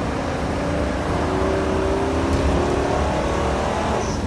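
Ford Triton V10 gas engine of a fully laden Class A motorhome on a Ford F53 chassis, pulling under acceleration, its pitch climbing slowly.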